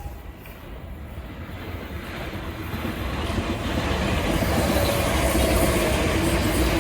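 A passenger train approaching on the rails, growing steadily louder over about four seconds and then holding loud and steady as it draws close.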